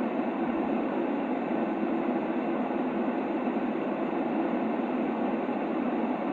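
Steady sleep white noise: an even, unchanging rushing hiss, weighted toward the low-middle range and dull at the top.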